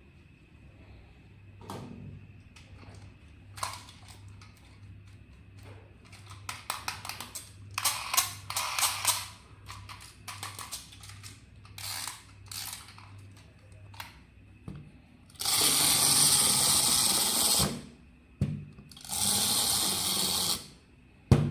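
Plastic clicking and rattling from handling a small electronic toy. This is followed by two bursts of a small toy motor and gears whirring, each a couple of seconds long, and a sharp knock near the end.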